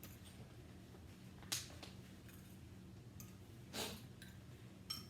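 Utensils and dishes at a hot pot meal giving three light clicks and knocks over a faint steady hum.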